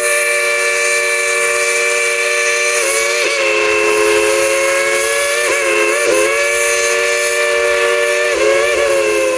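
Steam locomotive's chime whistle blowing one long blast, a chord of several notes held for about nine seconds. Its pitch sags briefly a few times as the valve is worked.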